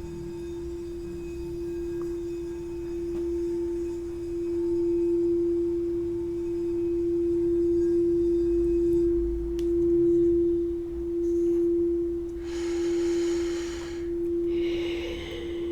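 A singing bowl holding one steady, sustained tone that swells and fades in slow waves. A breathy hiss comes twice near the end.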